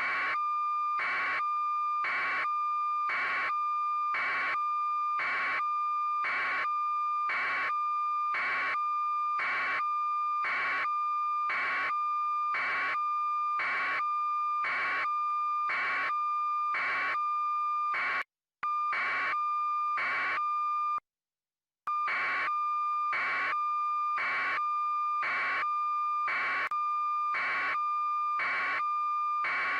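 Steady electronic tone with a short beep-like pulse about once a second, cutting out to silence twice, briefly, a little past the middle.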